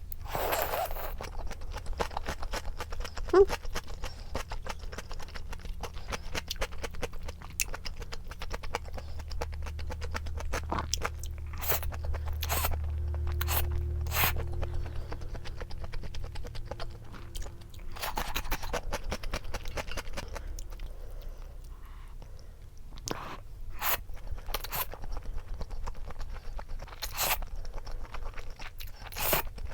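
Close-miked mukbang eating: chewing with crisp crunches and sharp clicks throughout, with a low hum in the middle stretch.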